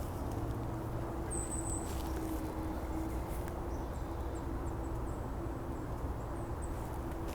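Outdoor backyard ambience: a steady low rumble with a faint constant hum, and a few short, high chirps scattered through it.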